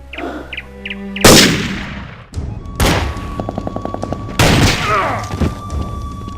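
Three loud gunshots about a second and a half apart, each with a long echoing tail, over background music.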